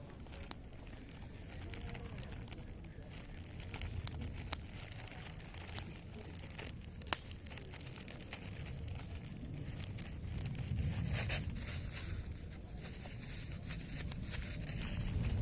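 Wood fire of zelkova and willow branches crackling, with scattered small pops and one sharper pop about seven seconds in, over a low rumbling noise.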